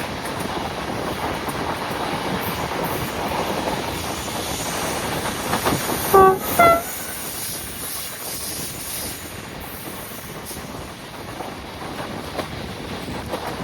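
A passenger train running with a steady rolling noise. About six seconds in, a locomotive horn gives two short blasts, a lower note followed by a higher one.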